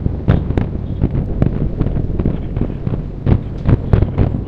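Aerial fireworks shells bursting in a rapid, irregular string of sharp bangs, several a second, over a continuous low rumble.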